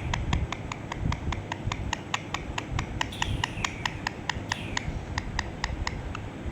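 Ringneck parrot making a rapid, even series of sharp clicks, about five a second, broken by three short whistles that fall in pitch; the clicking stops near the end.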